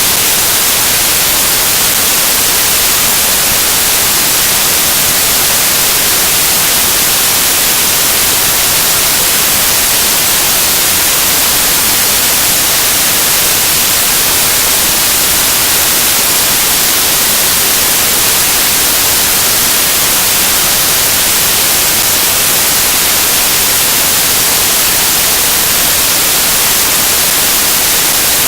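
Loud, steady static hiss like white noise, strongest in the high frequencies and unchanging throughout, with no speech over it.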